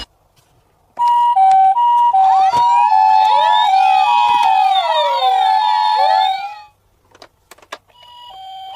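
Toy emergency-vehicle sirens: an electronic hi-lo two-tone siren switching between two pitches about three times a second, with several wailing sirens sweeping up and down over it. It cuts off suddenly near the end and is followed by a few clicks.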